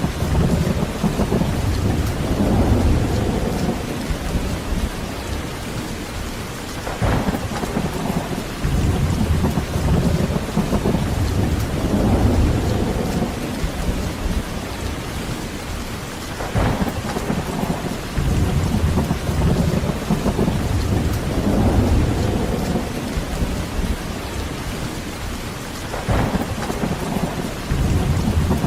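Heavy rain falling steadily, with rolling thunder swelling and fading every several seconds. Three sharper cracks stand out, about a quarter, a half and nine-tenths of the way through.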